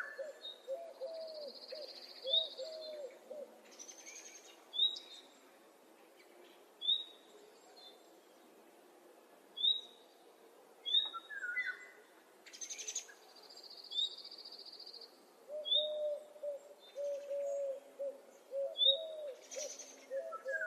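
Several wild birds calling. A low, quick series of repeated notes sounds near the start and again in the second half, over high, thin chirps every second or two and two short buzzy trills.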